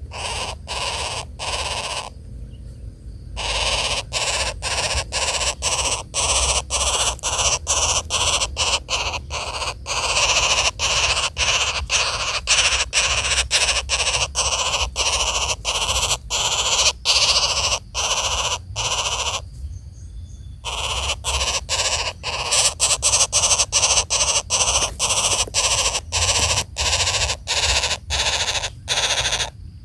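Woodpecker nestlings giving harsh, raspy begging calls in rapid repeated bursts, about two a second, pausing twice briefly.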